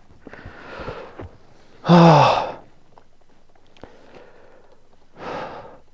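A man breathing out, with one loud voiced sigh about two seconds in that falls in pitch, and softer breaths before and after it.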